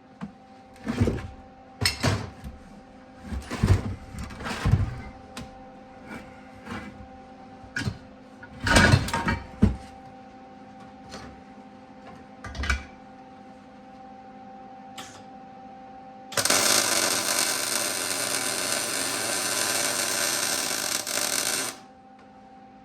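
Irregular metal knocks and clanks as the springer fork legs are handled in the welding jig, then a steady welding arc hiss for about five seconds that cuts off suddenly, with a faint steady hum underneath.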